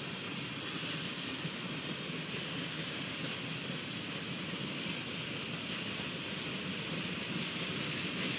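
CSX freight train's cars rolling slowly through a grade crossing, a steady noise of wheels on rail.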